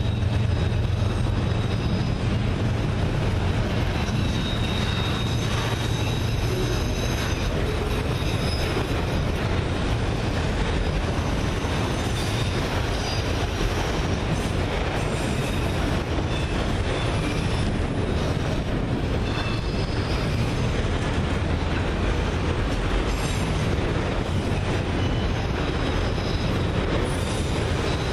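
Autorack freight cars rolling past: a steady rumble of steel wheels on rail, with faint high-pitched wheel squeal coming and going.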